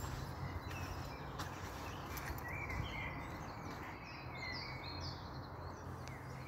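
Outdoor ambience: a steady background hiss and low hum, with small birds chirping several times, mostly in the middle.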